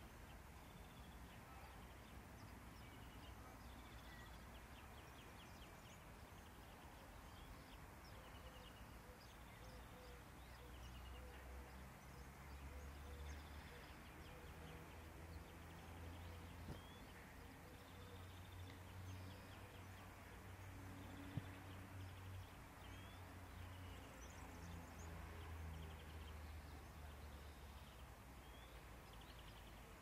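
Very quiet outdoor ambience: faint, thin chirps and short trills of distant small birds over a low rumble, with one sharp click about two-thirds of the way through.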